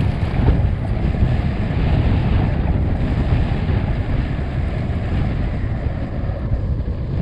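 Strong gusting wind buffeting the microphone: a heavy, constant low rumble with uneven surges.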